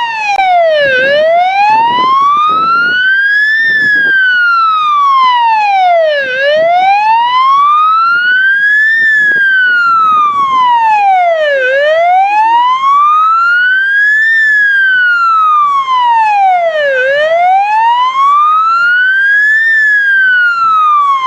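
A siren wailing loud and steady, its pitch sweeping slowly up and back down about every five seconds, four times over.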